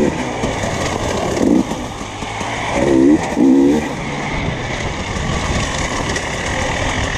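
Enduro motorcycle engine heard from the rider's onboard camera, running under a steady rushing noise and rising and falling in short revs: near the start, about a second and a half in, and twice around three seconds in.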